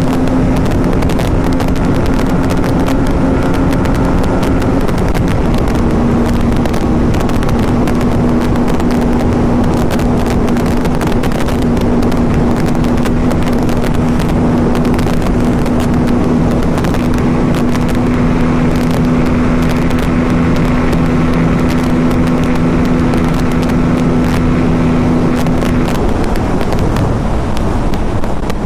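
Aprilia RS 457 parallel-twin engine running at a steady highway cruise, under heavy wind rush on the microphone. The engine note shifts slightly about five seconds in and drops away near the end.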